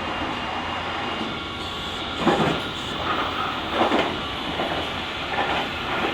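Running noise of a JR Kyushu 883 series limited express train, heard from inside the car's deck: a steady rumble from wheels and track. It is broken by a few short, louder rattles at roughly 2, 4 and 5.5 seconds in.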